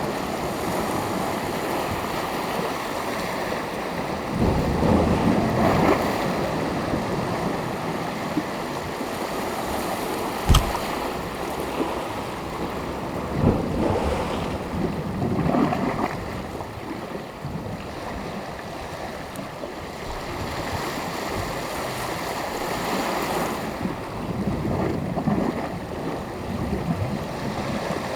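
Sea surf washing onto a beach, a steady rush of water that swells as waves break, about three times. A single sharp knock stands out about ten seconds in.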